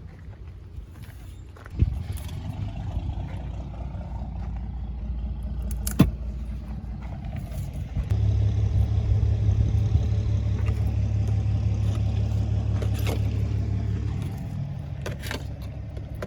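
A motor running with a steady low hum. It starts after a sharp click about two seconds in, gets louder about eight seconds in and eases off near the end. A second sharp click comes about six seconds in.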